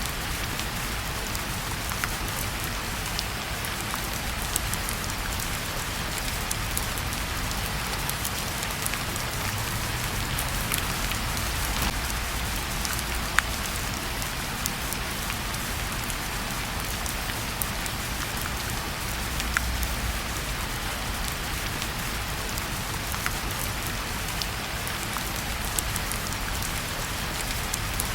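Steady rain falling on a surface, with scattered sharp drop ticks and a low rumble that swells and fades a few times.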